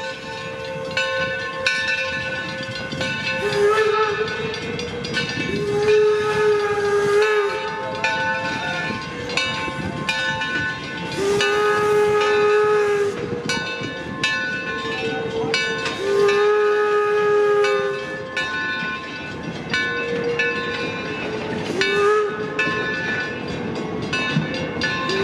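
Whistle of the Torch Lake, an 1873 Mason Machine Works steam locomotive, sounding a series of long blasts of one to two seconds each, alternating between two slightly different pitches. Under the whistle is a steady steam hiss and the clatter of the running train.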